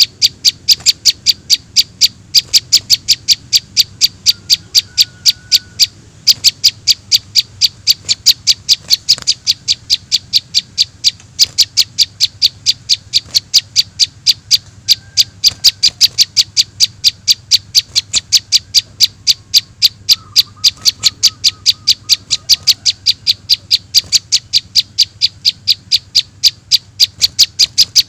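Bird-lure playback of young prinia (prenjak) calls: one sharp, high chirp repeated very evenly, about four times a second, as from a looped recording. A few fainter, lower whistled calls come in briefly now and then.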